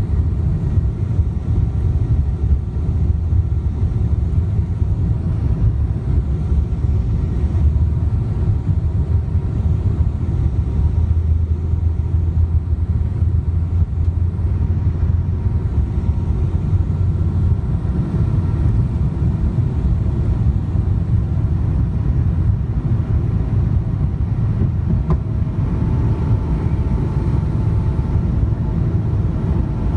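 Steady low rumble of a Boeing 777-200ER's Pratt & Whitney PW4090 jet engines, with faint steady whining tones over it.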